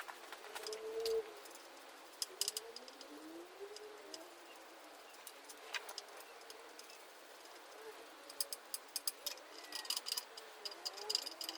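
Sharp metallic clinks and taps of small metal parts and tools being handled, in clusters near the start and again in the last few seconds. In between, a bird coos faintly in a few rising-and-falling calls.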